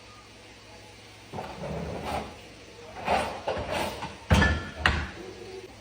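A run of knocks and thuds of household things being handled, with two sharp bangs about four and five seconds in.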